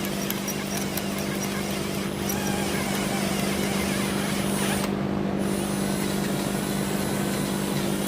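Milwaukee cordless drill running steadily with a 1/4-inch bit, boring through the steel rear trunnion of an AK-pattern pistol, with a constant motor hum.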